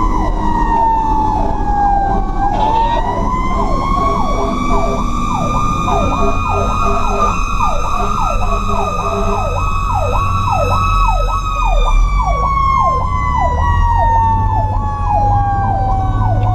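A mechanical Q siren winding: its pitch sinks, climbs back up about two seconds in, holds, then slowly winds down from near the end of the first two-thirds. Over it an electronic siren sweeps fast, about two sweeps a second, with the truck's engine rumbling low underneath.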